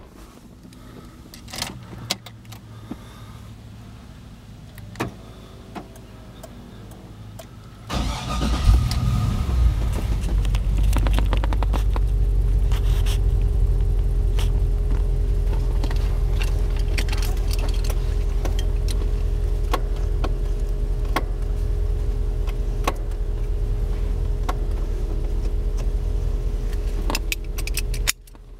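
Keys and small clicks for several seconds, then the 1955 Cadillac's 331 V8 cranks and catches about eight seconds in and settles into a steady idle.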